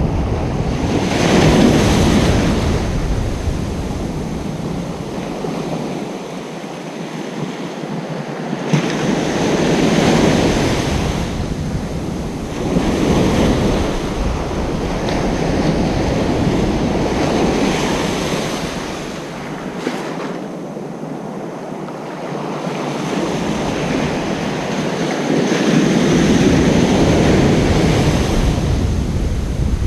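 Ocean waves breaking on a beach, the surf swelling and easing every few seconds. A low rumble runs underneath and drops out twice.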